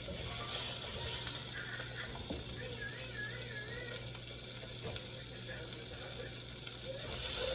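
Oil sizzling in a hot skillet where chicken pieces have been browning. It turns briefly louder twice, about half a second in and near the end, with a few light clicks of utensils or pots.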